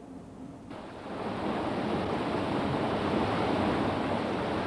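Steady rush of water pouring over a small waterfall into a stream, cutting in abruptly just under a second in.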